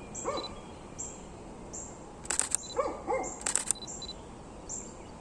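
Camera shutter firing in three short bursts of rapid clicks, with a few faint short calls from an animal in the background.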